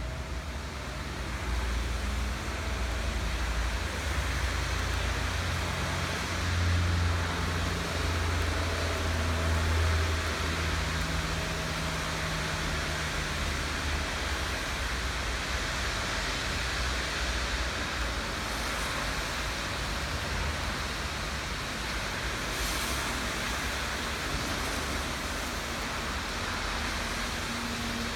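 Steady hiss of rain, with a low rumble of passing road traffic underneath that swells for a few seconds early in the stretch.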